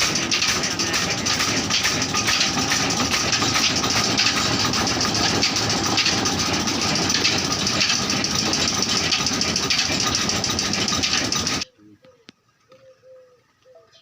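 Old stationary 'black engine' running steadily with a rapid, even firing beat, as it drives the pump on a bore well. The sound cuts off suddenly about twelve seconds in, leaving only faint background sounds.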